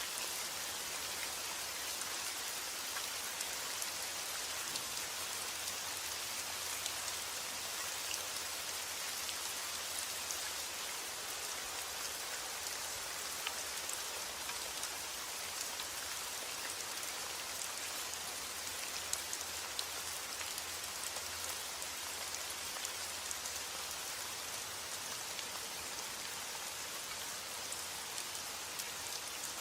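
Steady rain falling, with many small drops ticking on a hard surface.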